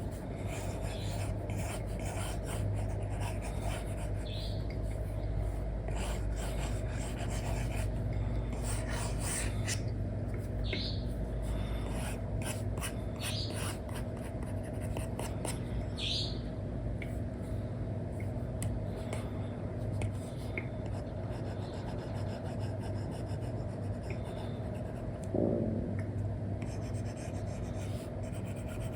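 Stylus drawing on a tablet: an Apple Pencil 2 with an Elecom nib scratching across a paper-like screen film in many short, quick strokes, with now and then a brief higher squeak of the nib, over a steady low hum.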